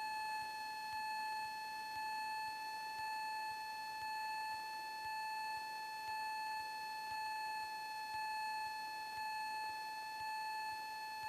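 A steady electronic whine at one pitch with overtones in the cockpit audio feed, swelling slightly about once a second. There is no engine or wind noise, only the electrical tone.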